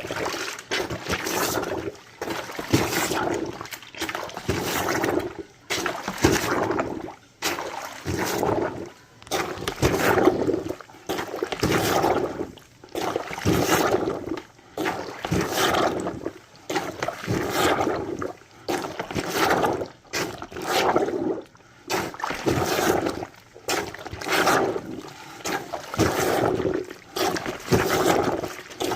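Handheld laundry plunger (washOTG portable washer) pumped up and down in a bucket of soapy water and clothes: rhythmic sloshing, squelching strokes a little under one a second.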